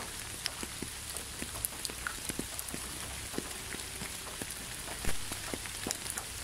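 Steady light rain, with scattered patters of individual drops and a single low thump about five seconds in.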